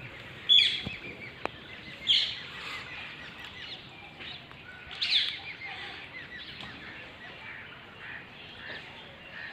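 A flock of birds calling: three loud, harsh calls about half a second, two seconds and five seconds in, over steady chirping and chattering.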